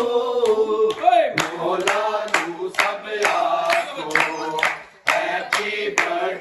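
Voices singing or chanting over a steady beat of hand claps, about three claps a second, with a brief break about five seconds in.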